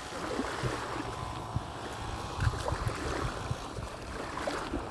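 Wind noise on a phone microphone over a steady wash of surf, with irregular low gusts.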